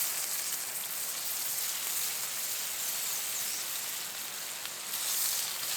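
Creek chub deep-frying in hot sunflower oil, sizzling steadily with a dense hiss.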